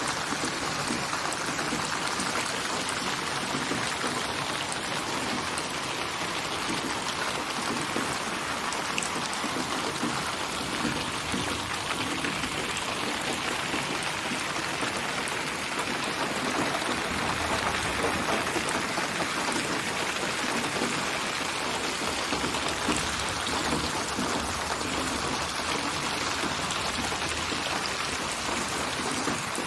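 Steady rain: a dense, even patter of raindrops on surfaces. It is a synthetic rain soundscape built from many recorded rain samples and spatialised in 8D (HRTF) audio, so the rain seems to sit around the listener.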